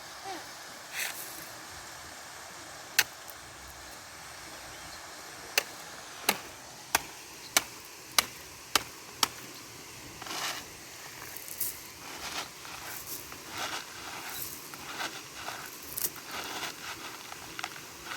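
Stones clicking together as a child digs and scatters loose rocks from a wet stone pile. Sharp single clacks come about once every half second to second in the first half, then softer scraping and crunching, over a steady hiss of running rainwater.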